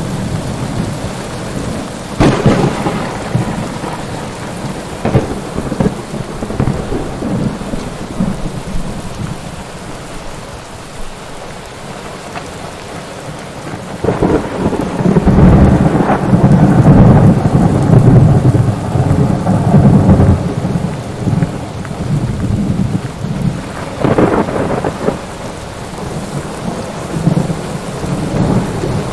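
Thunderstorm: steady rain with thunder. There are sharp claps about two and five seconds in, a long rolling rumble lasting several seconds from about halfway, and another clap near the end.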